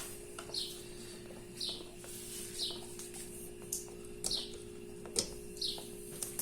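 A bird chirping over and over, a short high chirp falling in pitch about once a second, over a steady low hum, with a few light clicks.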